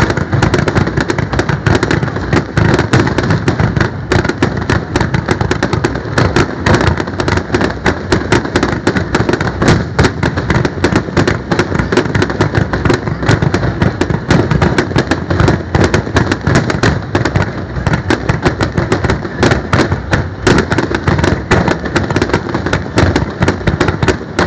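Fireworks display: a dense, continuous barrage of aerial shell bursts and crackling bangs, with no pauses.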